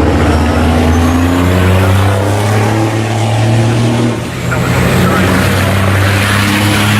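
Racing trucks' big diesel engines running hard on the circuit: a steady, loud engine drone that shifts in pitch as they change speed, dipping briefly about four seconds in, with a thin high whistle rising slowly above it.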